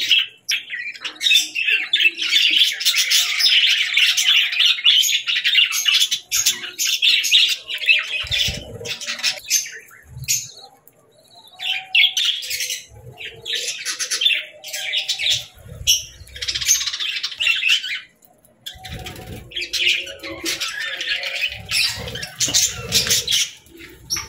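Budgerigars (parakeets) chattering and chirping in fast, warbling bursts, broken by a couple of short lulls, with a few soft low thumps.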